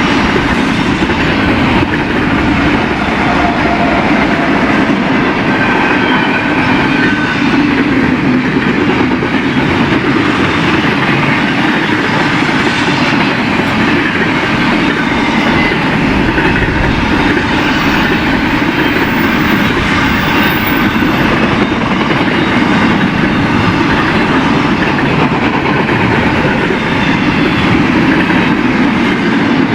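Freight train cars rolling past on the rails: a steady rumble with wheel clickety-clack and rattling, unbroken throughout.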